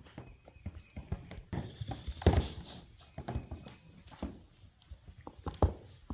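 Livestock hooves clopping and shuffling: irregular knocks and scuffs, with a louder thump about two seconds in and another near the end.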